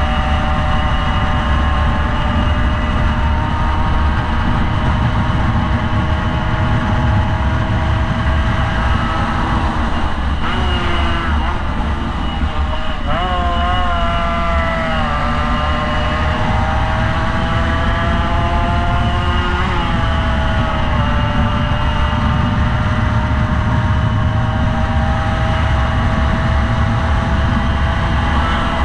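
Motorcycle engine running hard at speed, with heavy wind rumble on the microphone. The engine note holds steady, drops and climbs again about halfway through, then settles back.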